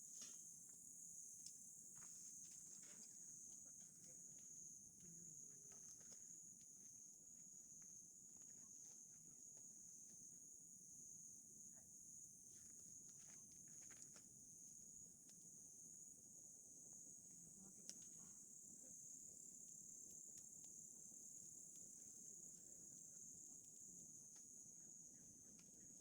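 Faint, steady high-pitched trilling of night insects such as crickets, with scattered soft crackles from a wood campfire.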